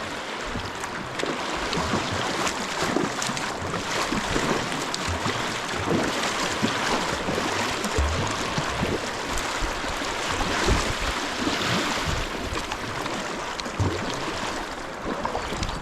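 Moving river water rushing steadily around kayaks in a fast current, with scattered small knocks and splashes.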